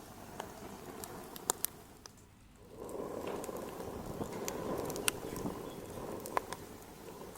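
Wood fire crackling in a fireplace, with sharp scattered pops. About three seconds in, a denser steady rustling noise comes in under the pops.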